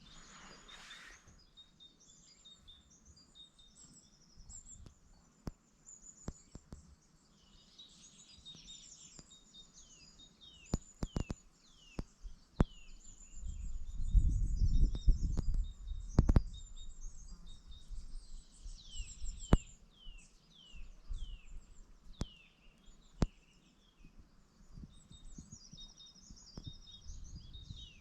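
Small songbirds singing and chirping, a busy mix of short chirps and quick falling notes. About halfway through, a low rumble and a few sharp clicks come in over the birdsong.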